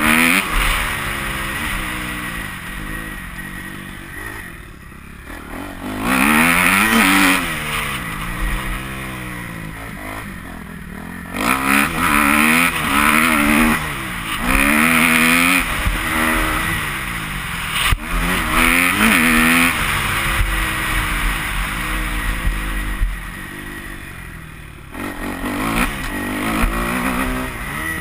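Kawasaki KX250F motocross bike's single-cylinder four-stroke engine revving hard and backing off again and again as the throttle is worked around the track, its pitch rising and falling through the gears with loud surges.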